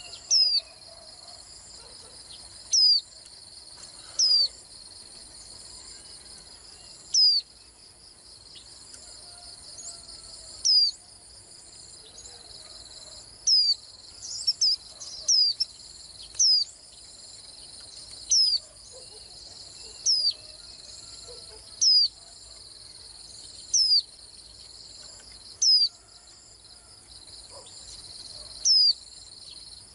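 White-eye giving short, high, sweeping call notes every one to two seconds, with a quick flurry of notes about halfway through. Under them runs a steady chorus of insects such as crickets.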